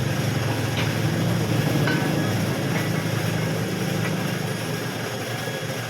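An engine running steadily with a low hum, easing off a little after about four seconds, with a few faint light clicks.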